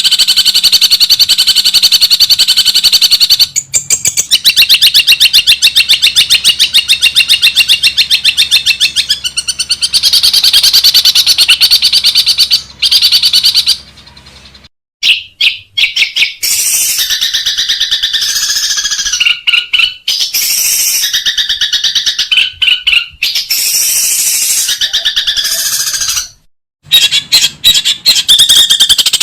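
Long-tailed shrike (cendet) song used as training audio: a loud, very rapid run of repeated chattering notes for the first half, a short break about halfway through, then harsher, more varied phrases broken by brief gaps.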